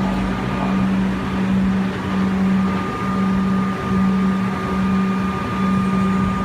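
V/Line diesel train passing through a station: a steady engine hum with a fainter higher whine above it, the hum breaking briefly about once a second.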